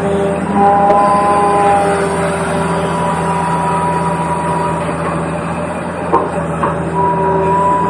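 Small electric gear motors of a remote-control toy excavator whining as it drives and works, several pitches cutting in and out, with two light clicks about six seconds in.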